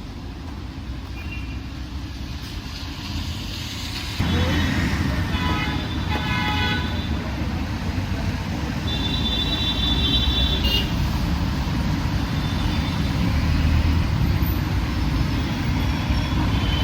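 Busy road traffic running, with vehicle horns honking: a cluster of short honks about five seconds in and a longer horn blast around nine to ten seconds. The traffic gets louder about four seconds in.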